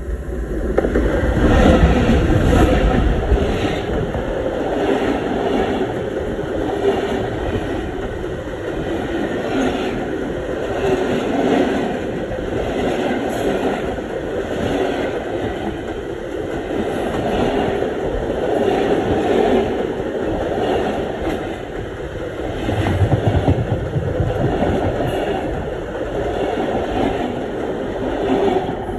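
Diesel-hauled train running directly over a microphone set between the rails: a heavy low rumble as the locomotive passes over in the first few seconds, then a long, continuous clatter of the cars' wheels on the track, swelling and fading in waves as each set of wheels goes by.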